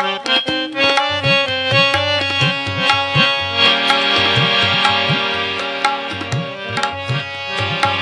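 Instrumental interlude of kirtan: a harmonium plays a sustained melody over tabla, whose bass drum strokes glide upward in pitch.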